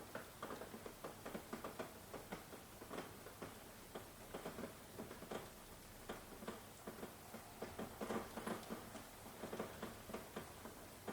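Faint rain: raindrops pattering and dripping as irregular, closely spaced ticks over a soft steady hiss.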